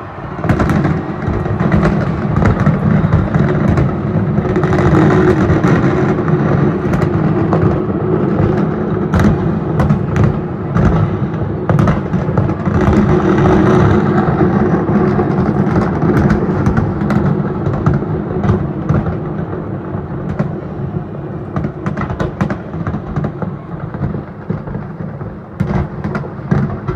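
Fireworks display: a rapid, continuous string of booms and crackles over a steady low rumble.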